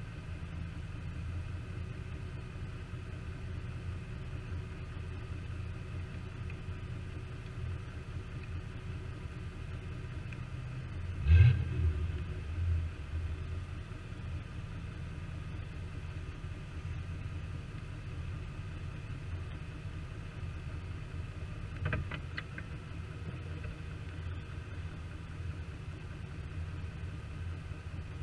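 Jeep engine running steadily on a trail as a low rumble, with a brief loud surge about eleven seconds in and a shorter, smaller one near the end.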